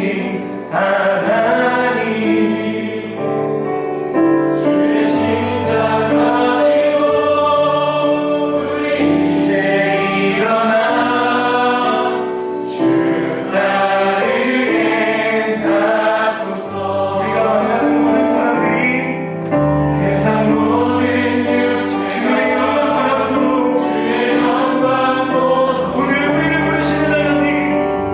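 Contemporary worship music played live by a band with keyboard, bass, electric guitars and drums, with a group of vocalists singing together.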